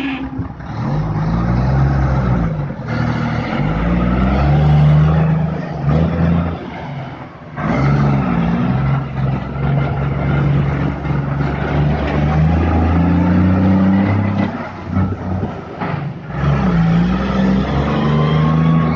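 Heavy truck's engine pulling away and accelerating, its revs climbing and then dropping several times as the 10-speed manual gearbox is shifted up.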